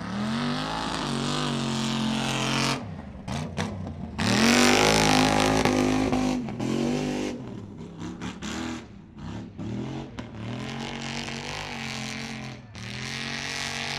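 Mud-racing super truck engine revving hard under full throttle. Its pitch climbs and sags in two long pulls. These are followed by choppy on-and-off throttle bursts and a steadier run near the end.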